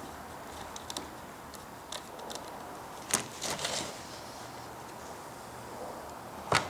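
Sharp clicks and knocks of small plastic parts and tools being handled, over a steady low hiss. The loudest click comes about three seconds in, followed by a few smaller ones, and another comes near the end.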